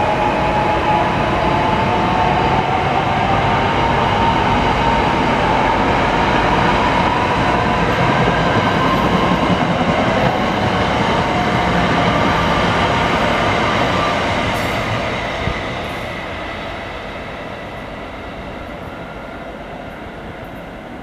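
Commuter train departing along the track past the platform: a steady rumble of wheels on rail with a thin whine in the first half. It fades from about fourteen seconds in as the train draws away.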